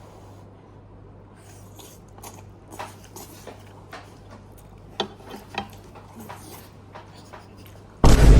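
Cutlery clinking and scraping against dishes while eating, in light, scattered clicks. A sudden loud sound cuts in just before the end.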